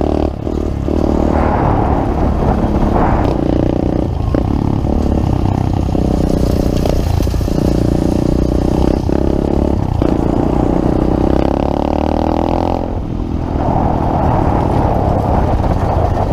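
Pit bike engine running while being ridden, with some rattling knocks, easing off briefly near the end.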